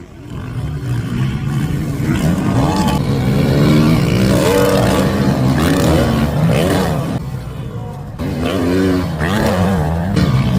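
Motocross motorcycle engines revving hard and dropping back again and again as the bikes race the track, swelling up over the first couple of seconds and dipping briefly about three-quarters of the way through.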